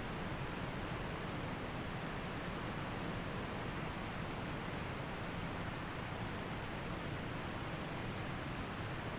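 Waterfall and creek water rushing in a steady, even stream of noise.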